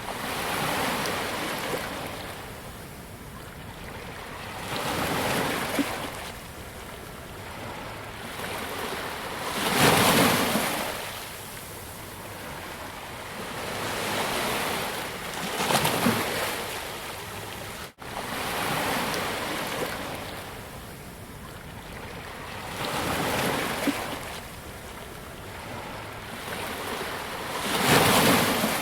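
Ocean waves breaking on a beach: surf swelling and washing in every five or six seconds, with a steady hiss of water between the breakers.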